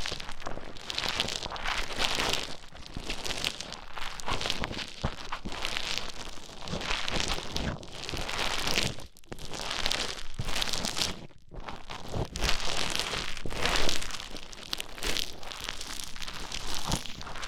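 Play Foam (bead-filled modelling foam) squished and stirred right at the microphone. It makes a continuous fine crackling that swells and eases every second or so, with two short pauses midway.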